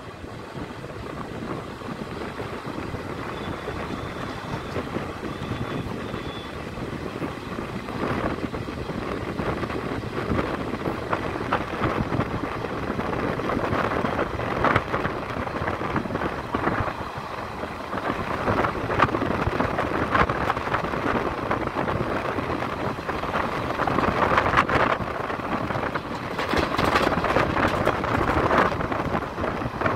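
Train running, heard from on board by an open window or door: a steady rumble of wheels on the rails with irregular clacks, and wind buffeting the microphone. It grows somewhat louder over the course of the clip.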